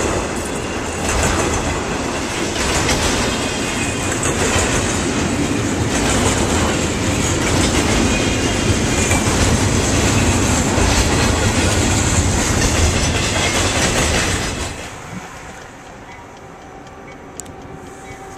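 Double-stack intermodal freight train running past on the rails with a loud, steady rumble of wheels and cars; the noise drops away sharply about fifteen seconds in as the last car passes.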